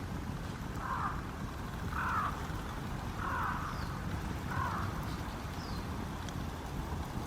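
A bird calling five times, short harsh calls about a second apart, over a steady low background rumble.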